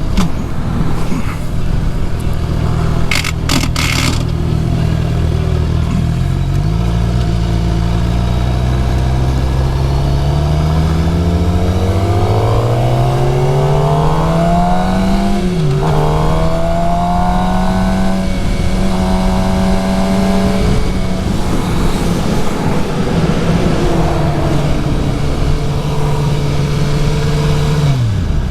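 Suzuki GSX-R750 inline-four engine under way: it holds steady for a few seconds, then revs climb for about ten seconds with one shift partway through, hold high for several seconds, and ease off near the end. A few sharp clicks sound about three seconds in.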